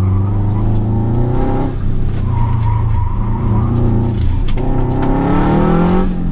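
Turbocharged 2.5-litre flat-four of a modified 2005 Subaru Forester XT, heard from inside the cabin, pulling hard under acceleration. Its pitch climbs, falls away about two seconds in and again about four and a half seconds in, then climbs once more.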